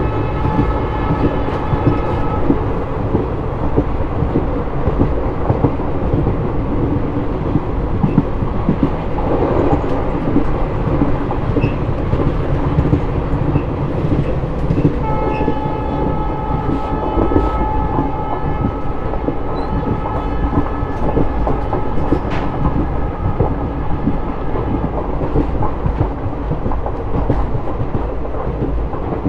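Passenger train running at speed, heard from on board, with a steady rumble and wheel clicks over the rails. The diesel locomotive's horn sounds at the start, ending about two seconds in, and again in a long blast about halfway through.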